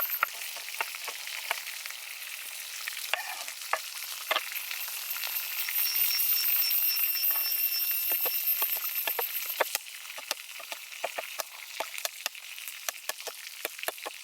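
Food frying in hot oil, sizzling with many small pops and crackles. The sizzle is louder from about six seconds in and drops back suddenly near ten seconds in.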